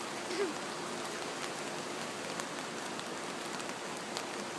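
Steady hiss of water in a flooded yard, with scattered light patters and drips and a faint steady hum underneath.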